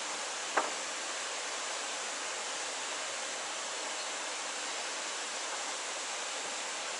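Steady hiss of background noise, with one small sharp click just over half a second in.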